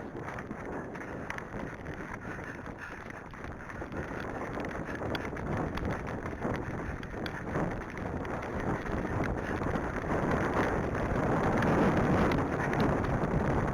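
Wind buffeting the microphone during a horseback ride, a steady rumbling noise that grows louder in the last few seconds.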